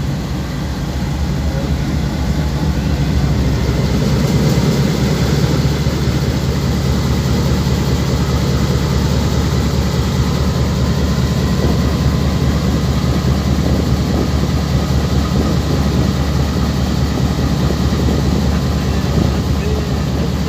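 Train running at speed behind a GEU-20 diesel-electric locomotive: a steady heavy rumble of engine and running gear that builds a little over the first couple of seconds, then holds.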